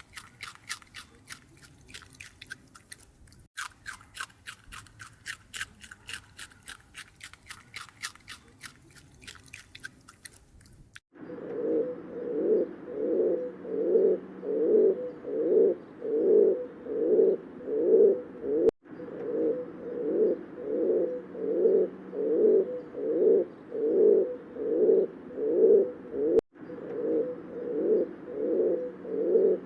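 Fast, even clicking or crunching, about three strokes a second, for the first eleven seconds. Then a louder, low cooing bird call repeats about once a second to the end.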